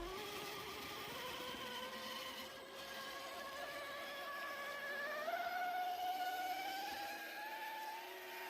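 Faint whine of an RC car's electric motor. It runs steadily, jumps up in pitch about five seconds in, then rises slowly as the throttle opens.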